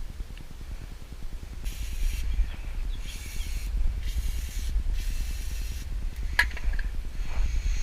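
An aerosol spray can spraying in four short hissing bursts, each under a second long, with a sharp click a little after the last one and a low rumble underneath.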